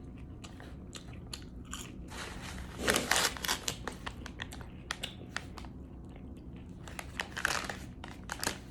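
Close-up chewing and biting of French fries, with small mouth clicks. Two louder rustling bursts come about three seconds in and near the end.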